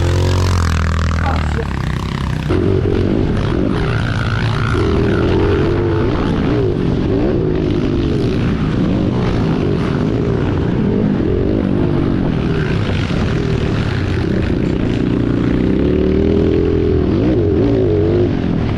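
Several motorcycle engines running and revving together, their pitches overlapping and rising and falling unevenly.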